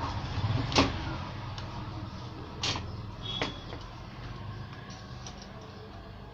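Three sharp clicks, about one, two and a half, and three and a half seconds in, over a steady low hum.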